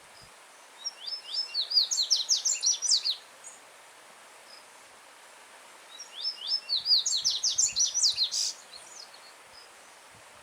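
Yellow-bellied seedeater (coleiro-baiano) singing two phrases, each a rapid run of sharp, high notes lasting about two and a half seconds, over the steady rush of a stream.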